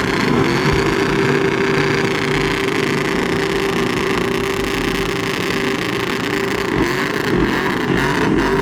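Truck engines running and revving, a loud continuous din with a steady drone held through most of it.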